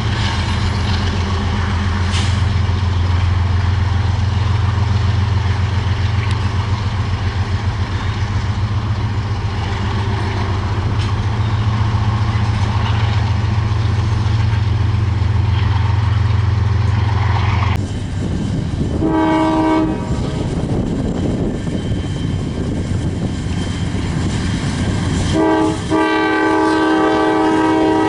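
Heavy, pulsing low rumble of a diesel locomotive's engine passing close, then the rolling rumble of the train. Its multi-note chime horn sounds a short blast about two thirds of the way in and a longer blast near the end.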